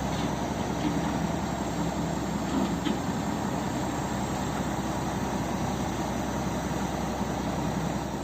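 Diesel truck engine running steadily, a low even hum under a broad mechanical noise.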